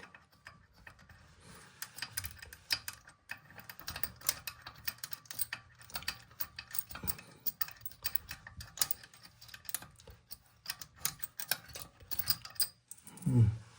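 Nut on a toilet tank bolt being turned off by hand: a long run of small, irregular metallic clicks and scrapes.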